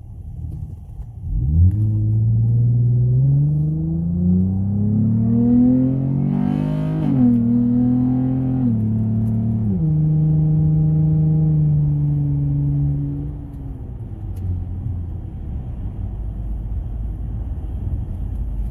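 Dodge Journey's engine under hard acceleration after a performance tune: the engine note rises steadily for about five seconds, drops sharply at an upshift, holds, drops again at a second shift, then falls back to a low rumble as the throttle eases.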